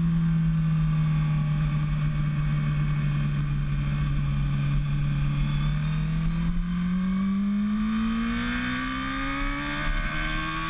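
Racing motorcycle engine heard onboard, holding a steady low pitch through a corner. About six and a half seconds in it starts accelerating hard, and the engine note rises steadily toward the end.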